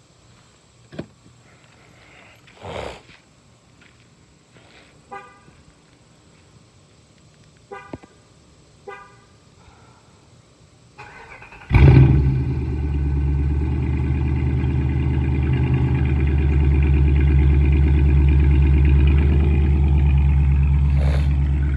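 Dodge Durango R/T's V8 cold-starting. A few clicks and three short beeps come first, then about 11 seconds in the starter cranks briefly and the engine catches with a loud flare, settling into a steady high cold idle.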